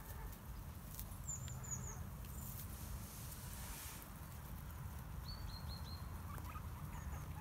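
Faint high chirps of a small bird: a quick run of four about a second in, and another run of four slightly lower ones about five seconds in, over a steady low rumble.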